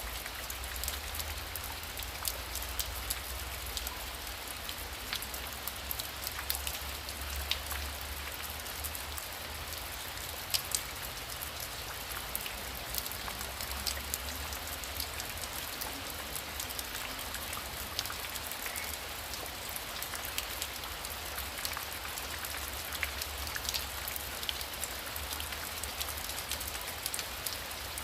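Heavy rain falling steadily: a dense hiss with many sharp taps of single drops, over a low rumble that swells and fades.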